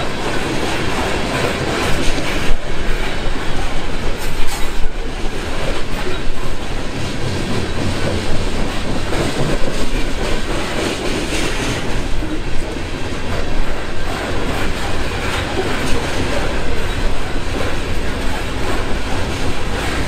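Freight train of coal cars rolling past, a steady noise of steel wheels on rail with louder knocks about two and a half and five seconds in.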